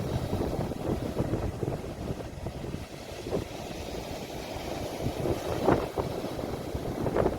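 Sea waves washing at the shore, a steady rumbling wash with a few brief louder surges, and wind buffeting the phone's microphone.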